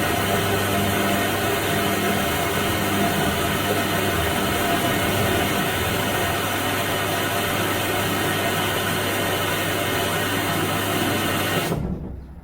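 Washing machine running with a steady, loud noise over a low hum, cutting off abruptly near the end to a much quieter background.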